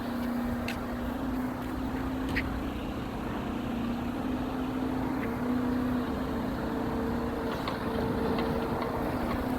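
A vehicle engine running steadily, with a held droning hum over a low rumble and a few faint clicks.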